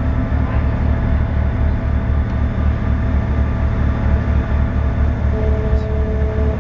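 Passenger train running, heard from on board: a steady low rumble with a pulsing drone underneath. About five seconds in, two steady held tones join it.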